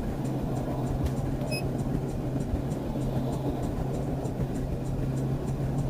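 Steady engine and road noise of a police patrol car in pursuit, with a constant low hum and faint regular ticking.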